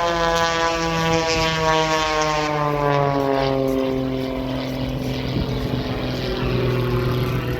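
Aerobatic aircraft flying past at an airshow. Its engine and propeller tone drops steadily in pitch over the first three or four seconds as it goes by, then holds a lower, steady note.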